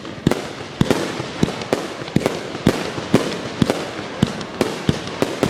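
Fireworks display going off in quick succession: a rapid string of sharp bangs, two or three a second, each trailing a short echo.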